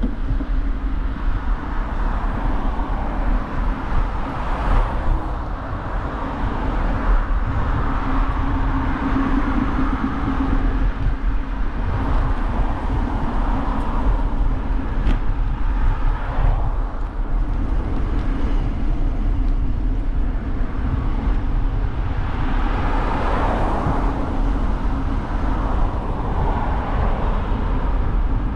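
Outdoor sound recorded from a moving bicycle: a steady rumble of wind and tyres. Road traffic swells up and fades away several times, most strongly a few seconds in, around the middle and near the end.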